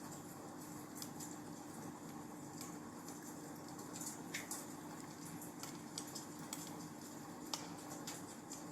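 Wood fire crackling in a fireplace: irregular sharp pops and snaps over a steady low hiss, with a short falling whistle about four seconds in.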